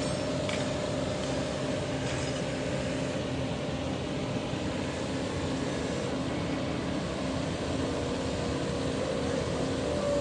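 Caterpillar 307 excavator's diesel engine running steadily, with a steady hum.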